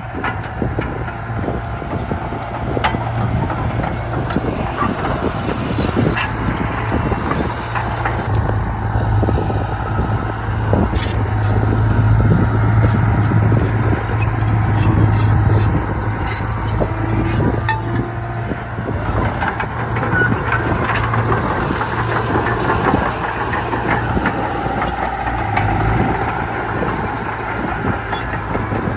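Diesel engine of heavy earthmoving machinery running steadily under work, with scattered metallic squeaks and clanks.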